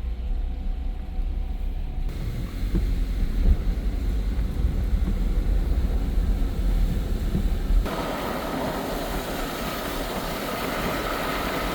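Steady low road rumble inside a moving car's cabin. About eight seconds in it cuts abruptly to an even outdoor hiss with no rumble.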